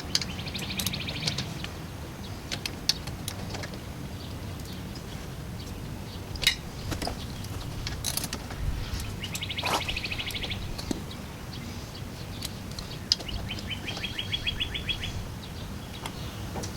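A small songbird trills three times, each a rapid run of high notes lasting a second or two. Sharp metallic clinks from tools at work on the brake parts come in between.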